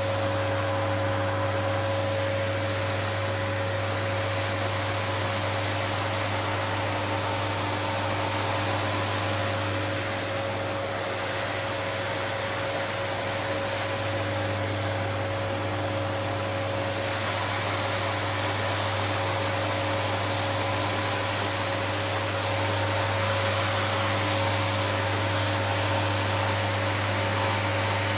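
An electric shop power tool's motor running steadily with a hum and an airy hiss. It eases slightly for several seconds about ten seconds in and gets a little louder after about twenty-two seconds.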